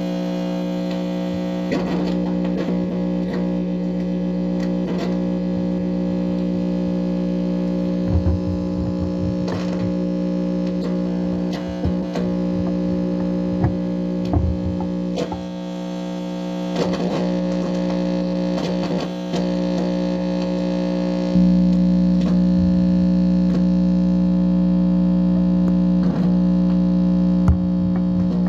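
Steady, distorted electronic buzz from an amplified speaker, a hum with many overtones, with scattered clicks and brief warbling sweeps, and a step up in loudness about two-thirds of the way through. The recorder takes it for a microwave receiver picking up directed-energy signals.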